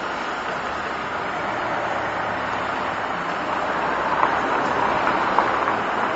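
Steady rushing of water, like water pouring through a canal sluice, growing slightly louder.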